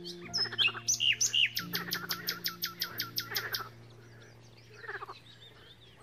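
Songbird singing: a few loud chirps, then a fast run of short falling notes, about eight a second, lasting some two seconds before it stops. Under it, soft instrumental music of held notes that change every second or so.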